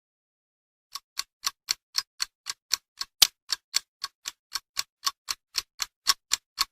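Ticking-clock sound effect: sharp, evenly spaced ticks at about four a second, starting about a second in after silence.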